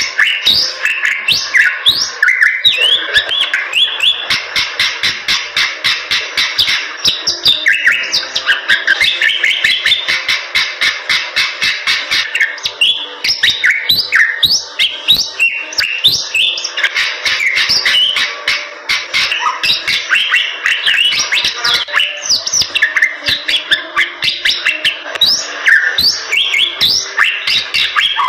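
Bali myna singing continuously: a dense run of rising and falling chirps and whistles, broken up by rapid sharp clicks.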